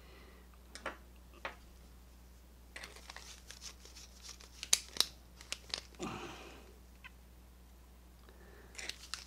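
Small metal clicks, scrapes and crunches of a hand tool working at an old padlock's rusted-out retaining screw, busiest in the middle with two sharper ticks. A short low hum of the person's voice follows.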